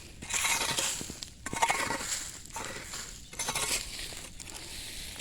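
Dry leaves crunching and crackling in uneven bursts, each lasting up to about a second with short pauses between.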